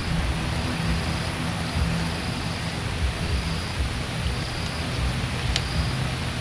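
Steady low rumble of jet aircraft engines with broad airport noise, some low humming tones running through it.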